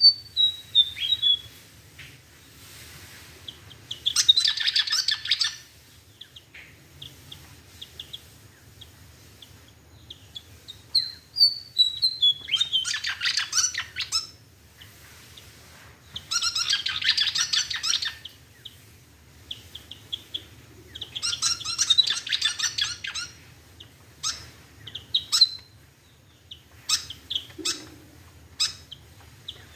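A bird calling in short, high chirps that slide downward, broken four times by bursts of fast, dense twittering song about two seconds long.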